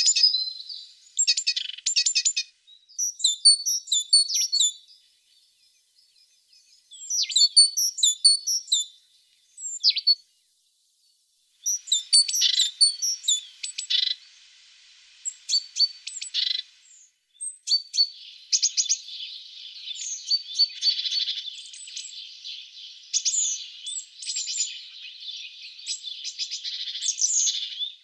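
Tits singing: bursts of high chirps and quick trills with short pauses between them. About two-thirds of the way in, they give way to a denser run of near-continuous twittering.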